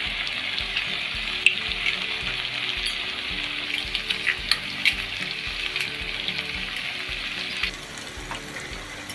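Okra and tomato masala sizzling as they fry in oil in a pot, with a few sharp clicks as eggs are cracked over the pot. The sizzle eases a little near the end.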